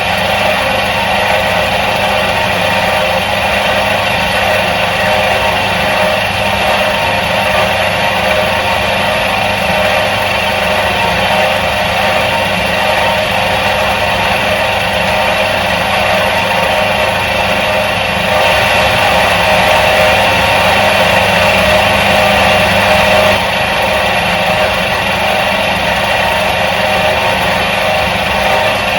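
Electric motor of a 1977 Soviet washing machine running steadily, an even mechanical hum. It gets slightly louder for about five seconds past the middle.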